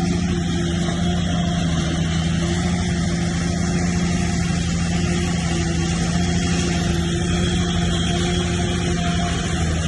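Heavy diesel engine of earthmoving machinery running steadily under load, a constant low drone with a steady pitch.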